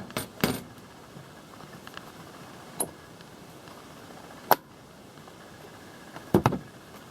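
Scattered sharp clicks and knocks from handling the furnace air filter and its access slot at the attic air handler, the loudest about four and a half seconds in and a cluster near the end, over a steady faint hiss.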